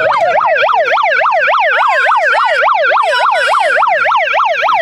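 Electronic yelp siren, its pitch sweeping rapidly up and down about five times a second, loud and unbroken, cutting off just after the end.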